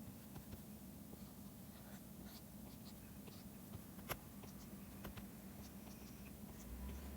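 Faint taps and short scratches of a stylus pen on a drawing tablet during digital drawing, with one sharper tap about four seconds in, over a steady low hum.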